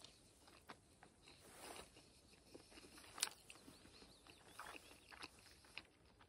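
Near silence with faint mouth sounds of a person chewing grilled chicken wing: soft scattered wet clicks, one a little sharper about three seconds in.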